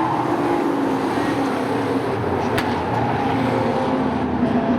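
A field of short-track sport trucks racing on the oval, several engines running hard together in a dense, steady drone whose notes shift as trucks pass. There is one sharp click about halfway through.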